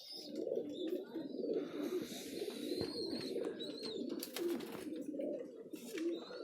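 A flock of domestic pigeons cooing continuously, many birds overlapping in low, warbling calls. A few sharp clicks and a brief rushing noise come about four seconds in.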